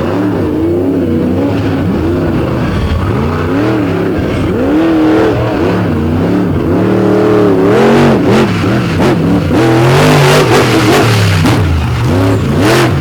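Monster truck engine revving up and down hard over and over as the truck is driven around the track, with sharp bangs and crunches of impacts in the second half.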